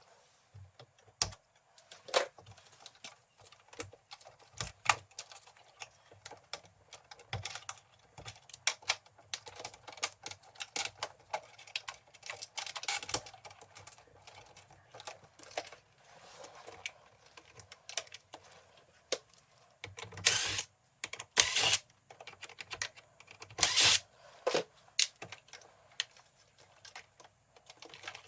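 Irregular light clicks and taps of hard objects, with a few louder, longer scraping noises about twenty seconds in.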